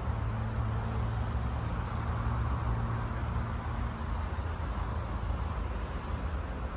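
Road traffic noise with a vehicle engine idling in a low steady hum that fades out about four seconds in.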